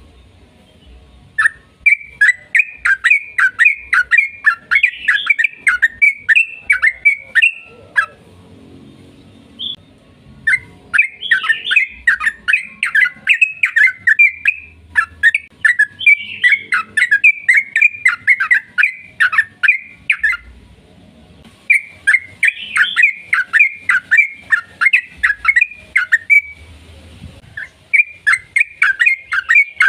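Yellow-vented bulbul (trucukan) singing long, rapid chattering phrases of sharp notes, several notes a second. It sings in four bouts with short pauses between them.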